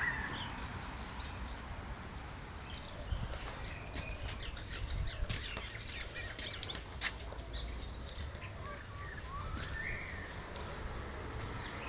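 Garden birds chirping and calling in short, scattered notes, with a rising call about ten seconds in, over a low background rumble.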